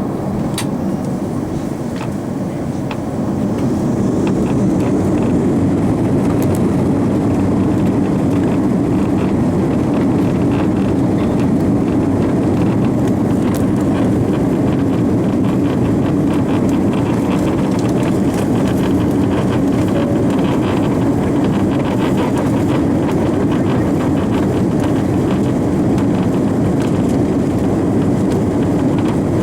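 Cabin noise of an Airbus A340-300 with its four CFM56 engines rising to takeoff thrust about three to four seconds in, then a steady loud rumble as the airliner rolls down the runway. Sharp knocks from the landing gear rolling over pavement joints come in the first few seconds.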